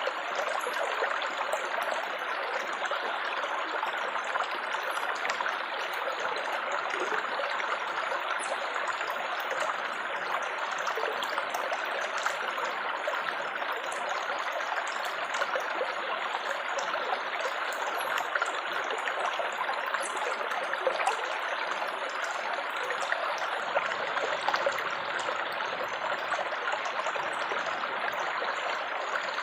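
Water trickling and splashing steadily, an even babble with no pauses.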